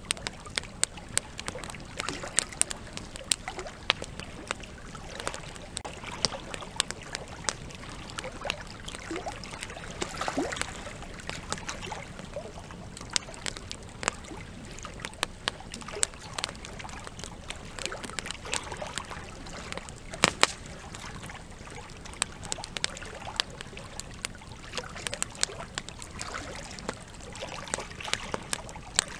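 Campfire crackling, with frequent irregular sharp snaps and pops, over the steady sound of flowing river water. One pop about twenty seconds in is louder than the rest.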